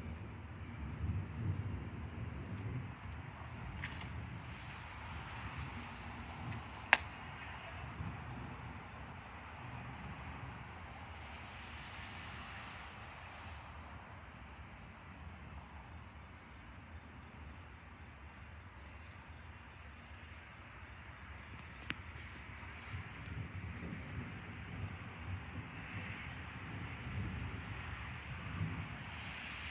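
Crickets chirping in a steady high-pitched trill. A low rumble comes and goes near the start and again near the end. A single sharp click sounds about seven seconds in.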